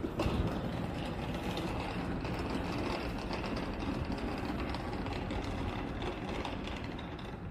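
A train running on the line, a steady rumble and rail noise that starts suddenly and eases off near the end.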